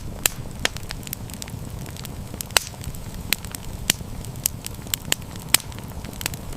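Wood campfire burning with a steady low rumble and irregular sharp crackles and pops, about one or two a second.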